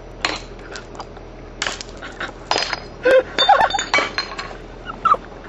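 A firework sparking and crackling, with sharp irregular cracks spread across a few seconds and a cluster of them, with a brief ringing tone, in the middle.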